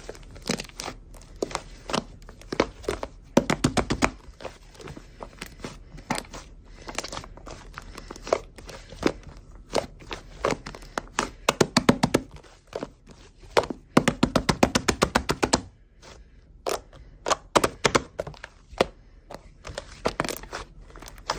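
Clear slime being squished and pressed by hand, giving sharp clicks and pops, with several quick runs of rapid clicking, the longest about a second and a half near the middle.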